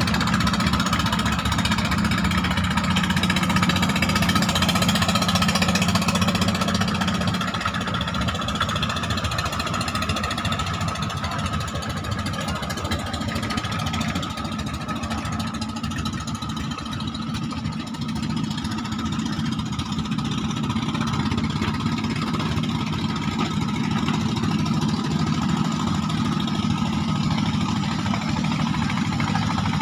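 A klotok river boat's inboard diesel engine running steadily, with a slight change in its low hum about seven seconds in.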